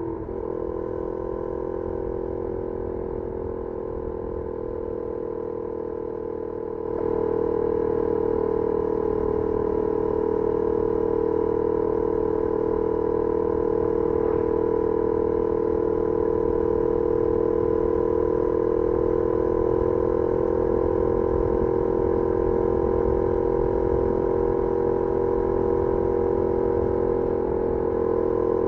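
Benelli Leoncino 800's parallel-twin engine running at steady revs through its stock exhaust, heard onboard while riding. The note holds an even pitch and gets louder about seven seconds in.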